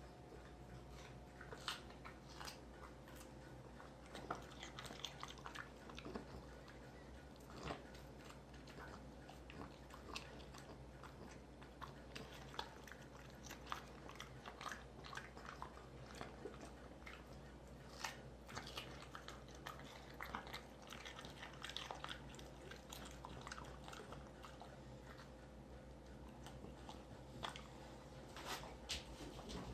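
A French bulldog chewing a cucumber, with faint irregular crunching bites.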